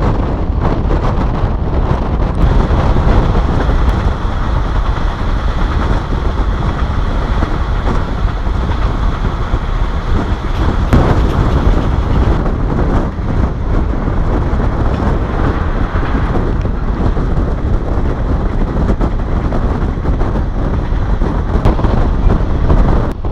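Passenger train running along the line, heard from inside a carriage: a loud, steady rumble of the wheels and carriage on the track, with a faint high whine over the first half.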